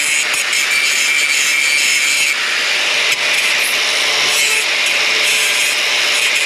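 A power tool working steadily on the car's steel body, a continuous harsh, high-pitched noise with no pauses.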